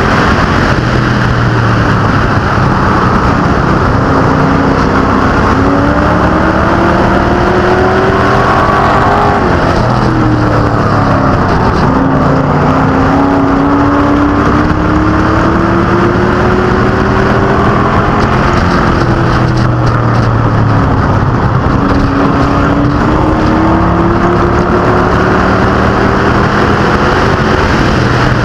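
Stock-car and pro-truck engines racing around a short oval track. The pitch climbs for several seconds as the pack accelerates, then drops as they lift, about three times over.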